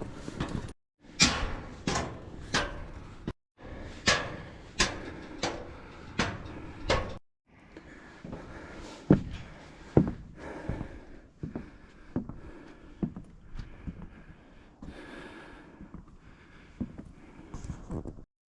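Footsteps climbing the stairs of a fire tower, a steady series of sharp knocking steps about one every 0.7 seconds, cut off abruptly a few times.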